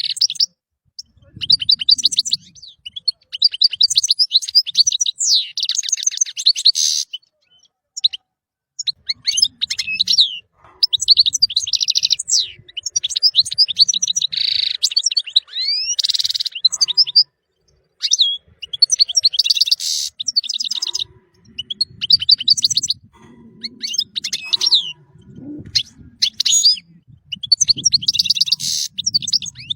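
European goldfinch singing: fast, twittering phrases of a few seconds each, broken by short pauses.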